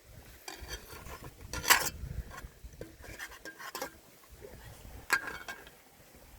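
Cutlery and dishes clinking in a few short, sharp knocks, the loudest about one and a half seconds in, over a low rumble.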